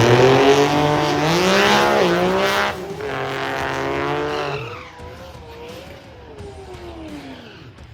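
Drag racing car at full throttle down the strip, its engine climbing in pitch and dropping back through several quick upshifts. The sound fades away after about five seconds, its pitch sinking as the car pulls off into the distance.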